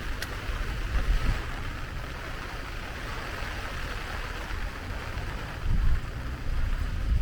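Steady rain falling, an even hiss of drops, with a few brief low rumbles of wind on the microphone about a second in and again near the end.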